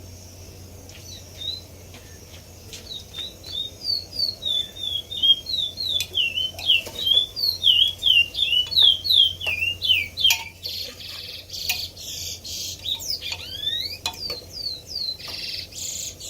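A bird chirping in a fast, even series of short falling notes, several a second, that grows louder through the middle. Near the end it gives harsher, scratchy calls.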